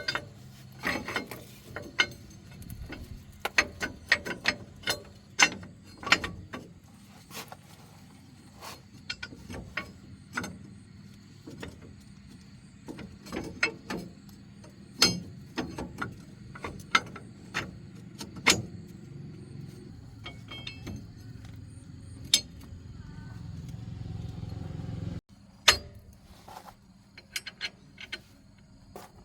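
Irregular metallic clicks, clinks and knocks of hand tools working on metal parts, over a low hum that swells and then cuts off suddenly about 25 seconds in.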